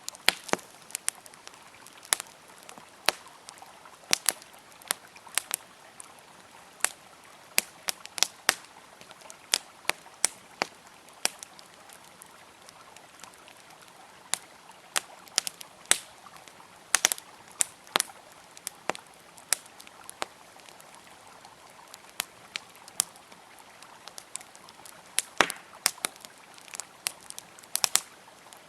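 Wood fire crackling, with irregular sharp pops and snaps, several a second at times, over a faint steady rush of flowing river water.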